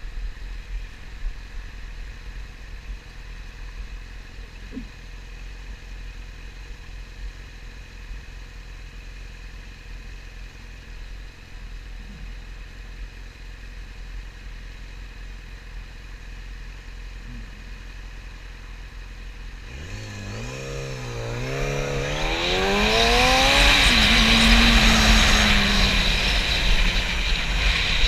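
Yamaha YZF-R6 inline-four sport-bike engine running quietly at low revs, then about 20 seconds in accelerating hard, revs climbing with a brief dip at a gear change. Heavy wind noise on the microphone then takes over as speed builds.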